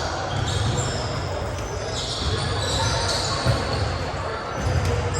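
Indoor basketball game ambience in a large gym: a ball bouncing amid background spectator chatter.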